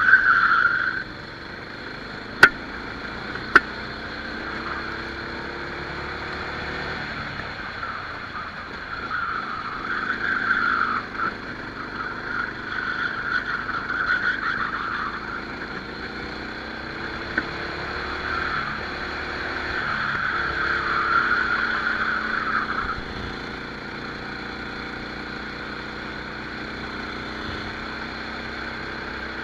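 Rental kart engine running hard, its pitch repeatedly rising and falling as the kart accelerates down straights and slows for corners, heard from an onboard microphone with a steady rush of wind. A couple of sharp clicks come a few seconds in.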